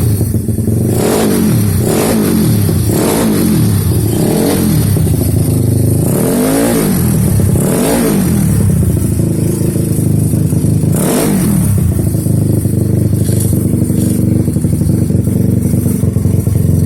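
Yamaha Mio Soul scooter's engine, tuned up to 150cc, running and revved in quick throttle blips, about seven sharp rises and falls in pitch spaced irregularly, with steady running between them.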